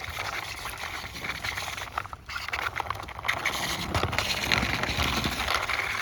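Leaves and brush rustling and crackling, with scattered small clicks.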